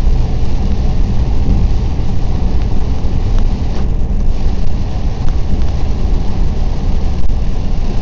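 Steady, loud noise of a car driving through heavy rain, heard from inside the cabin: rain on the car and tyres on the wet road blending into one rumble.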